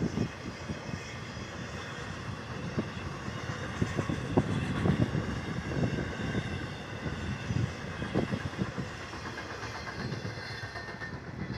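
Freight train cars rolling past, with a steady rumble and irregular low thuds from the wheels over the rail joints.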